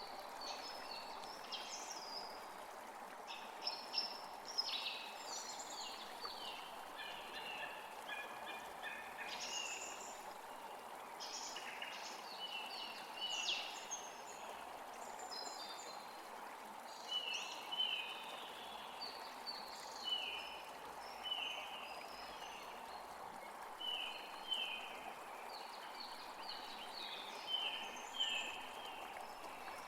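Several wild birds singing and calling: many short chirps and quick falling notes, thicker in the first half and then in repeated falling phrases later, over a steady background hiss.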